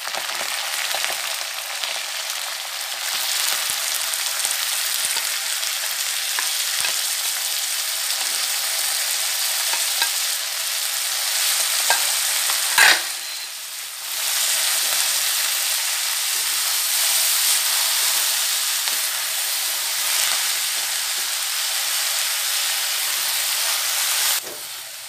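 Fresh fenugreek leaves frying in hot oil in a kadhai, a steady sizzling hiss, while a spatula stirs and tosses them. There is one sharp knock about halfway through, and the sizzle drops off abruptly just before the end.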